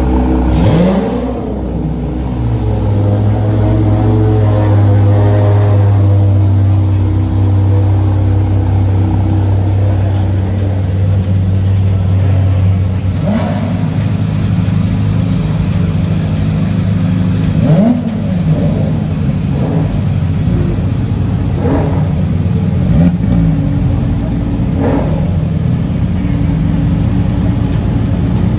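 Supercar engines idling with a steady low drone, broken several times by quick throttle blips that rise and fall in pitch.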